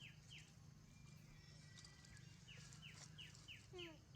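A small animal calling faintly: a run of short, high, falling chirps, about three a second, that stops and starts again, the second run ending with a few lower falling squeaks.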